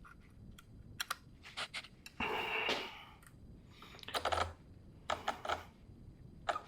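Light clicks and taps from handling a file against a small chainsaw chain, with one scraping file stroke a little over two seconds in that lasts just under a second.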